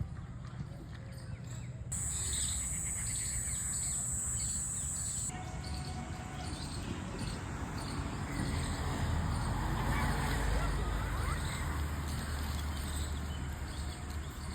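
Birds chirping over steady outdoor background noise; the sound changes abruptly twice, about two and five seconds in.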